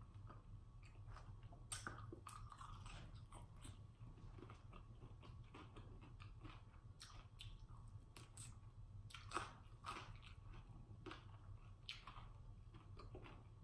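Faint close-miked chewing of a chicken wing: soft mouth clicks scattered throughout, the sharpest about nine seconds in.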